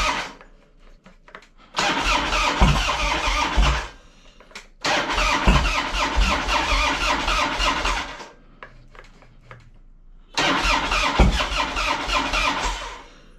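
Harley-Davidson motorcycle's electric starter cranking the engine over in three long tries of two to three seconds each, stopping sharply each time with short pauses between. The engine does not stay running, which the owner puts down to it being out of gas.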